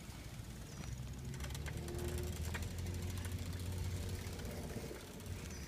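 A motor vehicle's engine running, a low hum that swells after about a second and fades toward the end.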